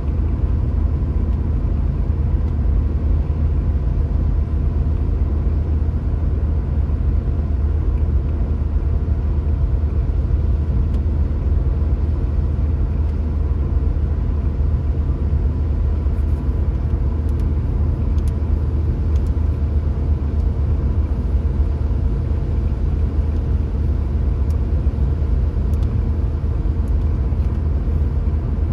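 Steady low rumble of a car driving along a road, engine and tyre noise at an even speed. Faint scattered ticks come in over the second half.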